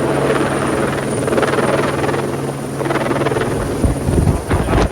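Twin Squirrel (AS355) twin-turbine helicopter running close by with a steady rotor hum. Near the end, heavy gusts buffet the microphone, typical of the rotor downdraft.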